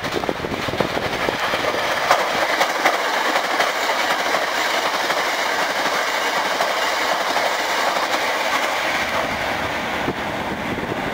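Hankyu 9300 series eight-car electric train passing at speed without stopping. A steady rush of running noise comes with repeated clacks of the wheels over rail joints.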